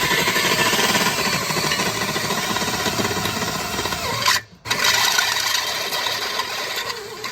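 Power tool drilling holes in sheet-metal seat mounting, with a dense, rasping sound in two stretches and a brief break about four and a half seconds in.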